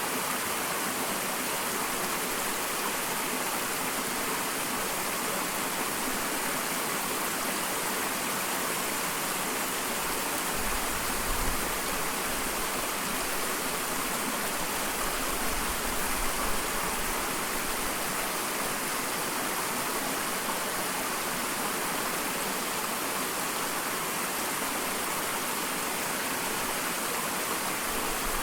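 Small waterfall: a steady, even rush of falling water. A couple of brief low rumbles rise under it around the middle.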